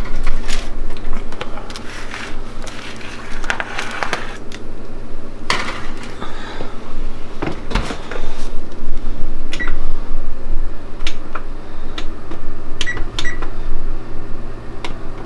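Pans and an oven rack clattering, then an electric oven's control-panel buttons clicking and beeping several times as the broiler is set to high, over a steady hum.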